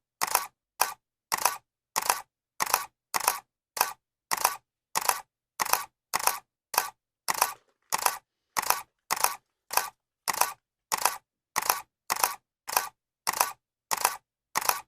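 Camera shutter clicking over and over in an even rhythm, a little under two clicks a second. Each click is a quick double snap, with silence between.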